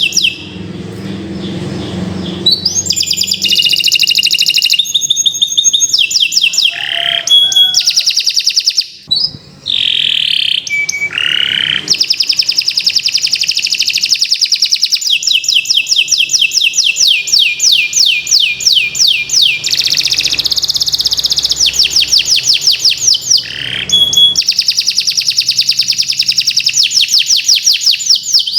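Domestic canary singing a long, continuous song of fast trills, each phrase a run of quickly repeated high notes, with a brief break about nine seconds in.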